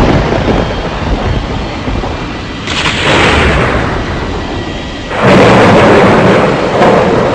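Fokker 70 jet airliner landing: a loud rumbling roar that surges twice, about a third of the way in and again past the middle.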